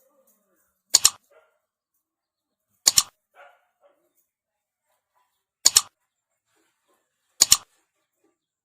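A dog barking four times, a few seconds apart, each a sharp quick double bark.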